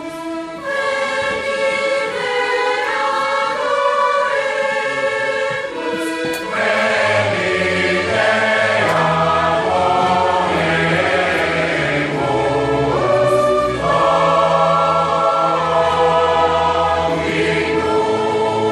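Choir singing: higher voices alone at first, with deeper voices joining about six seconds in for a fuller sound.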